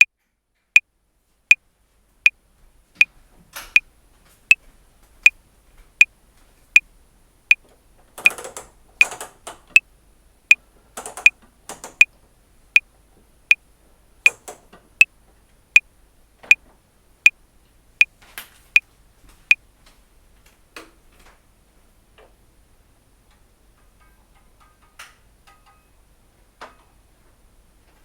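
Metronome clicking at 80 beats per minute, one sharp click every three-quarters of a second, through four bars of 7/4, then stopping about 20 seconds in. Fainter noises come between some of the clicks, and a few faint ticks follow them.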